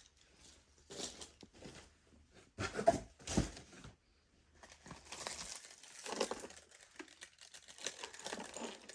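Crinkling and rustling of packaging being handled, with a few sharper clicks about three seconds in.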